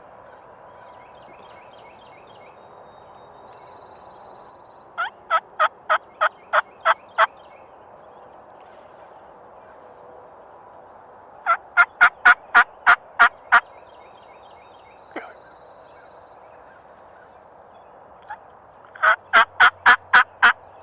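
Wild turkey gobbler gobbling at close range three times. Each gobble is a fast rattling string of about eight notes, and two single short notes fall between the second and third gobbles.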